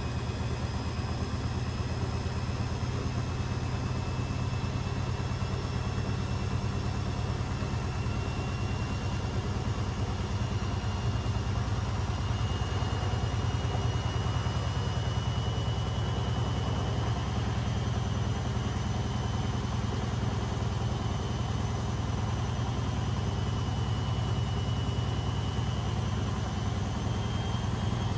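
Beko front-loading washing machine running steadily: a strong, even low hum from the drum and its carbon-brush motor, with a faint high whine above it that rises slightly in pitch about halfway through.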